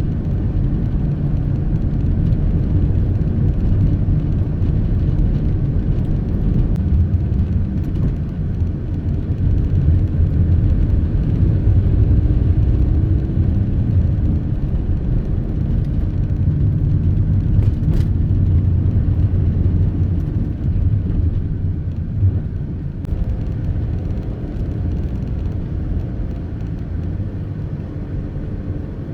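Car being driven, heard from inside the cabin: a steady low engine and road rumble, with one brief click partway through.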